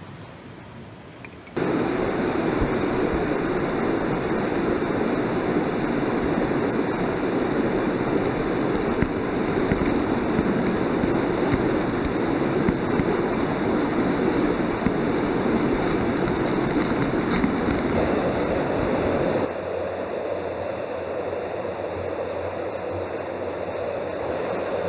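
Mountain stream water flowing, a steady low rush that starts abruptly about a second and a half in and drops to a slightly quieter, different rush near the end, as between separate shots.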